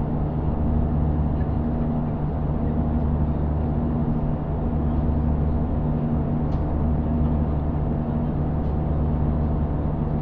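Steady low drone of an airliner's engines heard inside the passenger cabin.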